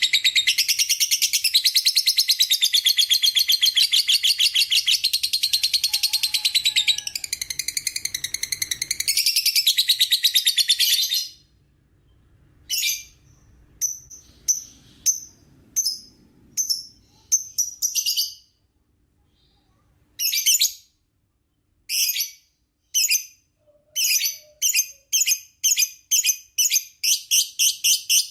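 Lovebird's 'ngekek': a long, unbroken, very fast shrill chatter for about eleven seconds. It then breaks into short separate bursts with gaps between them, and the bursts come quicker and closer together near the end.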